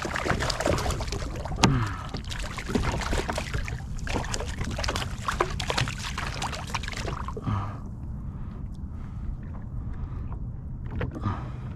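Water splashing and sloshing around a fishing kayak, with short knocks and clicks against the hull and one sharp knock about two seconds in. It quietens after about seven seconds, leaving a few splashes over a steady low rumble.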